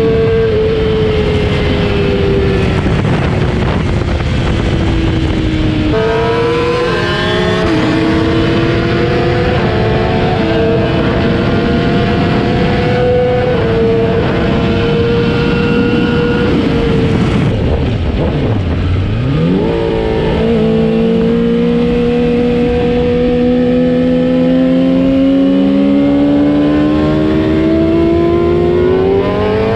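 Sport-bike engine running hard, its revs rising and falling with several sudden jumps in pitch. About two-thirds through, the revs drop very low, then climb in one long steady rise.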